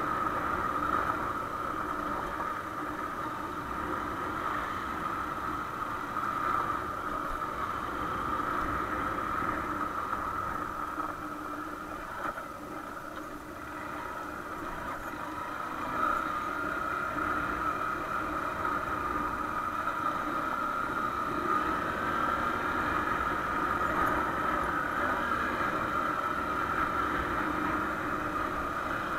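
Honda XR150L's single-cylinder four-stroke engine running steadily while the bike rides on. It eases off briefly about twelve seconds in and picks up again about four seconds later.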